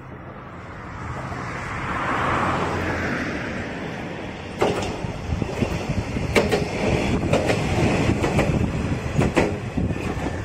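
Matsuura Railway single-car diesel railcar approaching along the track: its engine running grows louder over the first couple of seconds, and from about halfway through the wheels click sharply over the rail joints in an irregular clickety-clack.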